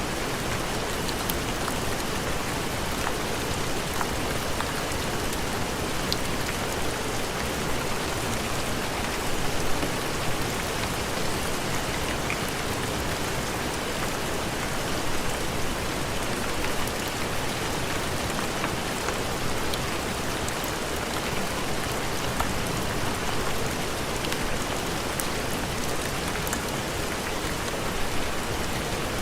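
Steady heavy rain falling, an even hiss with scattered drop ticks and a few brief swells.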